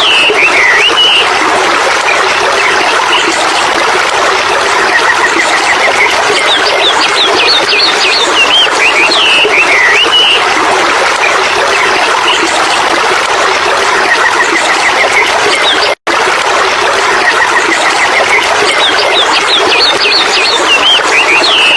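Steady running water, like a stream, with birds chirping over it; the same bird phrase comes back about every nine to ten seconds, as in a looped nature recording. The sound cuts out for an instant about sixteen seconds in.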